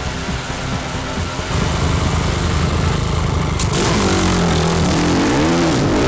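A motorcycle engine running, then revved over and over from about four seconds in, its pitch rising and falling with each blip of the throttle.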